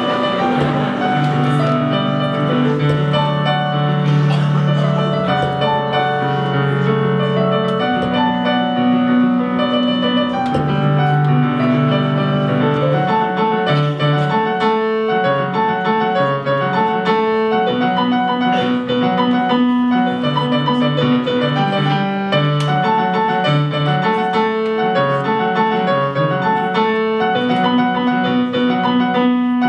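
Piano music: sustained chords with a melody over them, the chords changing every second or two.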